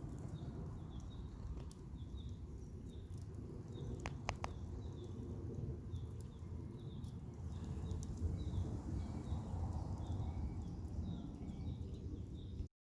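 Outdoor ambience: a steady low rumble under short, high bird chirps repeating about once or twice a second. A few sharp clicks come about four seconds in, and the sound cuts off suddenly near the end.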